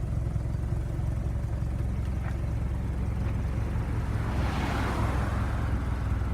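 Toyota 3S-GTE turbocharged 2.0 L four-cylinder idling steadily during an E85 cold start: it holds its idle smoothly, with no stumbling. About four seconds in, a brief hiss swells and fades.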